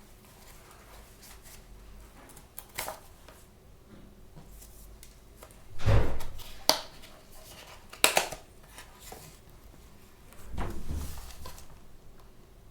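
Hands handling toy blind-box packaging and small figures: a few sharp clicks and knocks, the loudest a thump about six seconds in, then a longer scuffing noise near the end.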